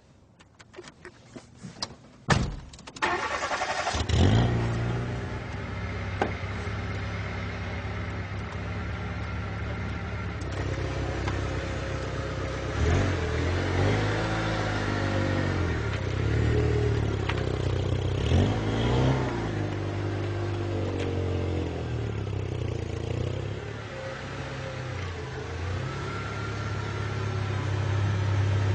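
Fiat Panda's engine started about three seconds in, after a few clicks and knocks, then running steadily with the revs rising and falling several times as the small car is eased slowly forward.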